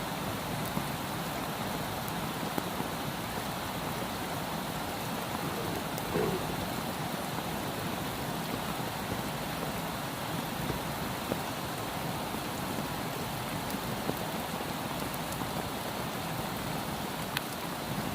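Soft rain falling steadily, an even hiss with scattered sharp drip ticks.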